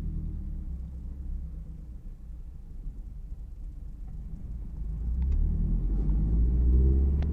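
Toyota 86's FA20 flat-four boxer engine, breathing through an aftermarket exhaust, rumbling at low revs while driving. About five seconds in, the revs climb under acceleration and the exhaust note rises in pitch and gets louder.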